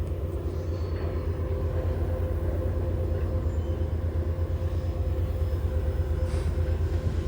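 A train going by after its horn stops, a steady low rumble with a faint steady hum above it.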